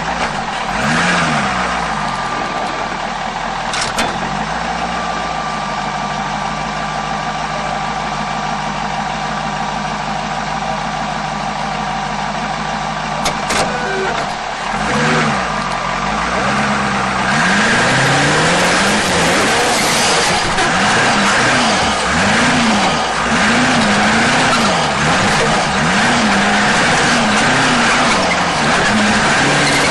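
Off-road competition 4x4 truck engine revving up and down under throttle. It holds a fairly steady note through the middle, where there are a couple of sharp knocks. About halfway in it goes into quick repeated rev swings, each rise and fall lasting about a second, and these get louder.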